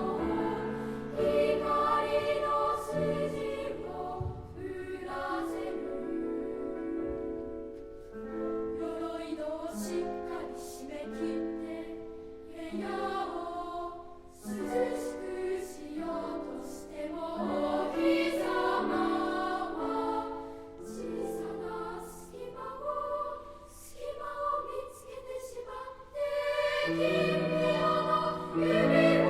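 Children's choir singing in three parts, a gentle Japanese song, with phrases separated by short breaths.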